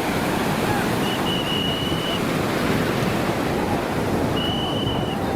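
Sea surf washing steadily onto the beach, with wind rumbling on the microphone. A high, steady whistle sounds twice, each about a second long.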